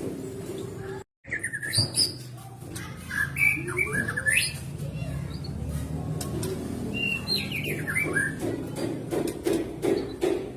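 White-rumped shama (murai batu) singing a run of varied whistled phrases, with the sound cutting out completely for a moment about a second in. A lower, rapidly pulsing sound comes in near the end.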